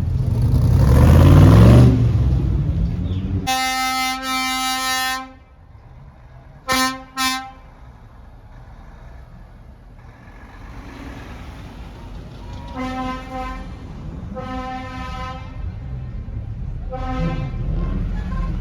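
A car engine revving hard, rising in pitch, then a car horn: one long blast, two quick toots, and later three fainter honks, over the low rumble of engines.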